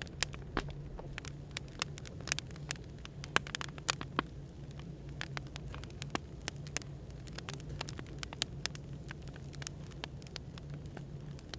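Wood fire crackling, with irregular sharp pops, over a steady low hum of background noise.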